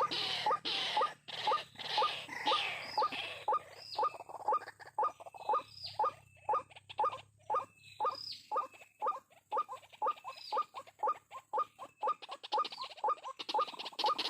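White-breasted waterhen calling: a long run of short, repeated notes, about three a second, with higher hooked notes mixed in, the bird's 'ruak-ruak' call.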